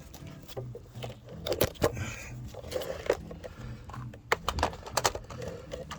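Scattered clicks, knocks and scraping of hands and tools working a stiff, old rubber fuel hose against a metal fitting, with several sharp clicks about a second and a half in and again past four seconds.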